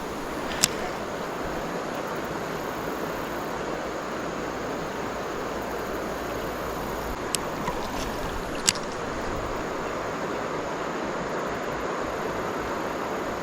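Steady rush of river water running over shoals, with a few sharp clicks: one under a second in, and two more around seven and a half and nine seconds in.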